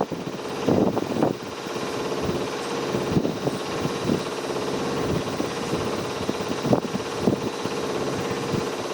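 Domestic washing machine running with a steady hum, and a few short knocks over it.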